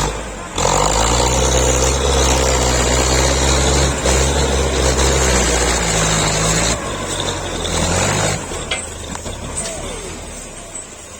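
Belarus tractor's diesel engine revving up hard about half a second in and running at high revs, then easing off in two steps near the end.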